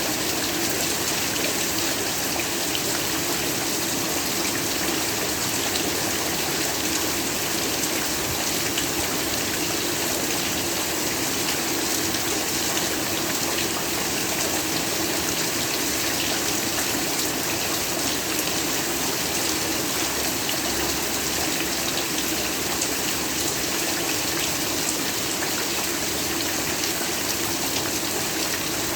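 Heavy, steady rainfall: a dense, even hiss of rain with scattered sharper drop ticks.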